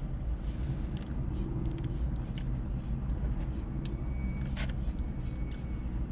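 A person chewing a mouthful of pasta, with small mouth and fork clicks, the strongest about four and a half seconds in, over a steady low hum.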